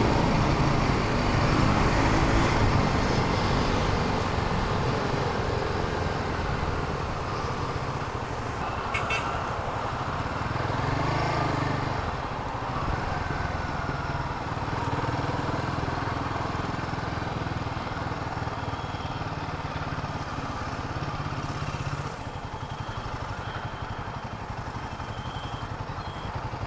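Royal Enfield Himalayan 450's single-cylinder engine running as the motorcycle rides through city traffic, with wind and road noise over it. The engine note rises for a moment about eleven seconds in, and the whole sound drops quieter a little after twenty seconds.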